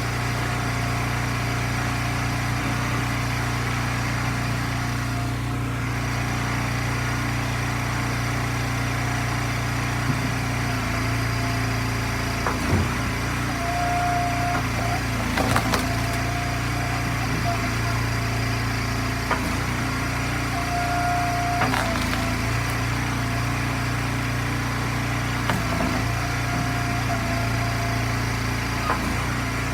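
Gas engine of an Eastonmade log splitter running steadily, with a few scattered knocks as ash rounds are split and the pieces land.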